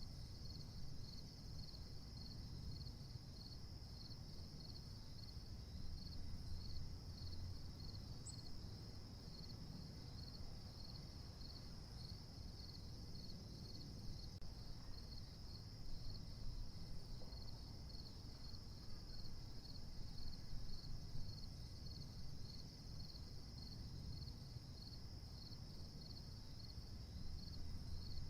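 Steady chorus of crickets: a continuous high trill with an even pulse. A faint low rumble sits underneath.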